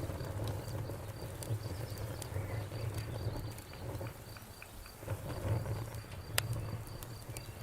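Campfire burning, with a low rumble from the flames and scattered wood crackles. One sharp pop comes a little past six seconds in.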